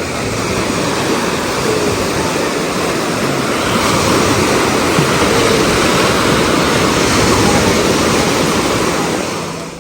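Sea waves breaking and washing on a beach: a steady rushing noise that fades out near the end.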